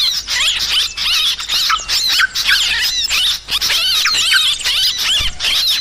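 Yellow-vented bulbuls (trucukan) chattering busily, many quick overlapping chirps and slurred whistles with no pause: a noisy flock call used as a bird-catching lure.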